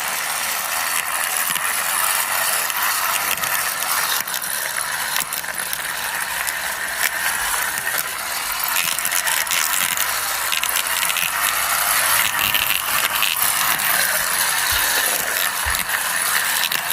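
Toy excavator pushed along by hand, its plastic gears and wheels giving a continuous fast clicking rattle.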